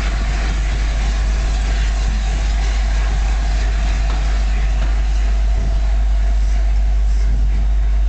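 Passenger coaches of a steam-hauled train rolling past close by on the rails as the train moves off: a loud, steady rumble and rush with no break.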